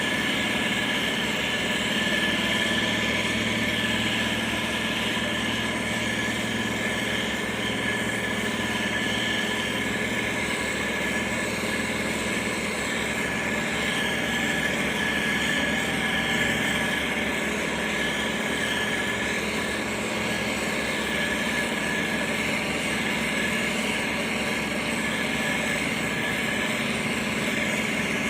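Diesel engine of heavy road-building machinery running steadily at an even pitch.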